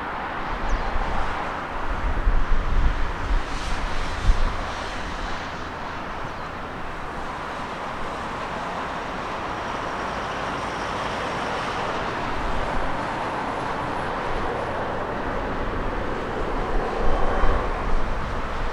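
Jet engines of a landing Boeing 777 giving a steady roar with a faint high whine, while strong gusting wind buffets the microphone with low rumbles early on and again near the end.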